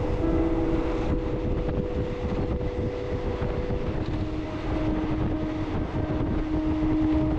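Passenger train running along the track, heard from inside a carriage with open windows: a steady rumble with wind rushing in, and a droning hum that shifts in pitch about halfway through.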